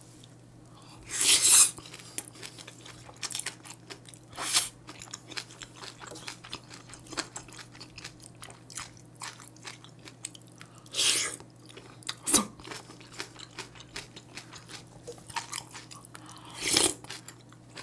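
A person chewing mouthfuls of bibimbap and kimchi stew close to the microphone: a running patter of small wet and crunchy chewing sounds, with four louder bursts of eating noise a few seconds apart and one sharp click about twelve seconds in.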